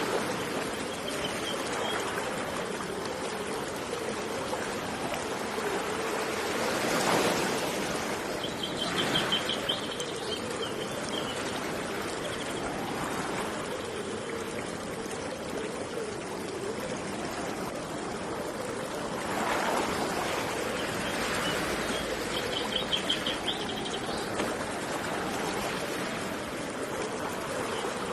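Steady rush of flowing river water that swells louder twice, like waves washing in, with a bird's short rapid trill heard twice.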